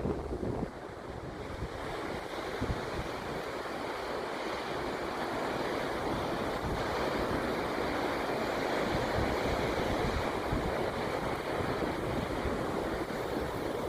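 Wind on the phone's microphone: a steady rushing noise, with heavy low buffeting in the first second.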